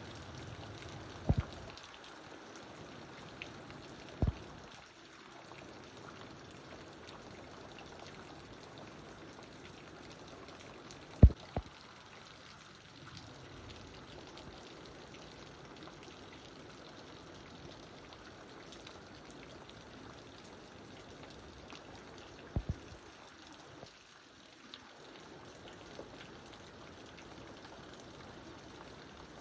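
Steady heavy rain falling, an even hiss of water. A handful of short, sharp knocks stand out above it now and then.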